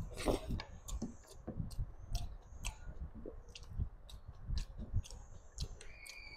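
Close-miked mukbang eating sounds: chewing a mouthful of chicken curry by hand, with many irregular wet mouth clicks and smacks and a louder one just after the start.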